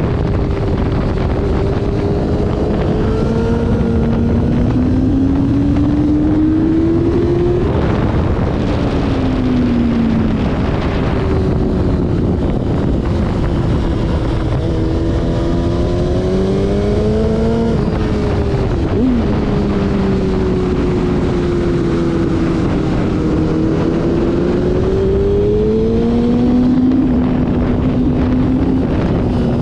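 Motorcycle engine running hard on a race track, its pitch climbing and falling repeatedly as the throttle opens and closes, with a sharp drop about two-thirds of the way through. Heavy wind rush on the microphone runs underneath.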